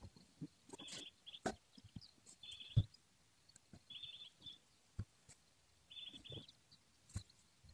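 Faint bird chirping in short bursts every second or two, with scattered dull knocks of ash firewood being tossed into a garden cart; the loudest knock comes about three seconds in.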